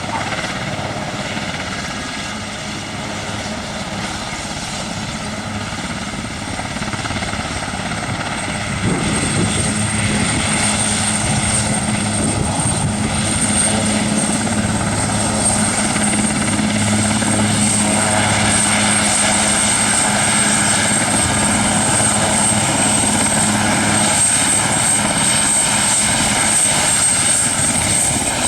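Aerospatiale AS332L1 Super Puma helicopter running, its twin turbine engines giving a steady high whine over the rotor's low steady drone. The sound gets louder about nine seconds in and stays up.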